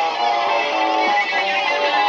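Looped electric guitar music: several guitar layers playing short pitched notes over one another.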